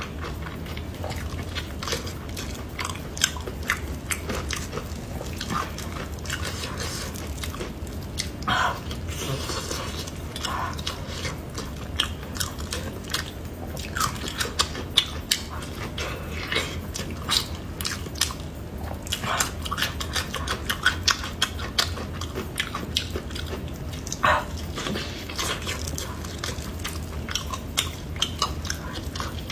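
Close-miked wet chewing and biting of braised stuffed pork intestine: many irregular sticky mouth clicks and lip smacks, with a steady low hum underneath.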